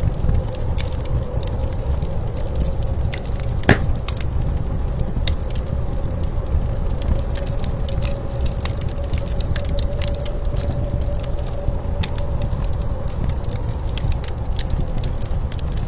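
Wood fire crackling with scattered sharp pops, one louder pop about four seconds in, over a steady low rumble of blizzard wind with a faint howling tone.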